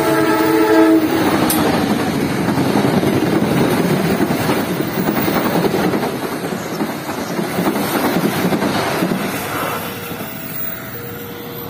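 Diesel locomotive horn sounding, cutting off about a second in, then the rumble and wheel clatter of two passenger trains passing each other on double track, the near train's carriages rolling past close by. The noise fades near the end, when a level-crossing warning starts alternating between two tones.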